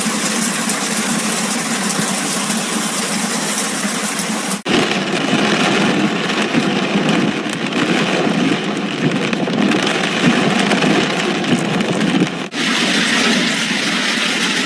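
Heavy hail and rain hammering down in a dense, steady roar of noise. The sound changes abruptly twice, about a third of the way in and near the end.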